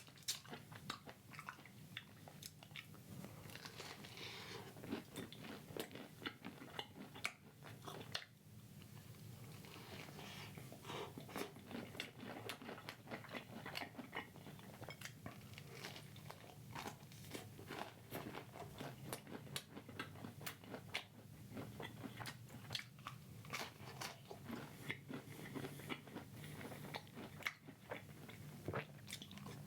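A man chewing and biting crunchy food close to the microphone: a steady run of small crunches and mouth clicks.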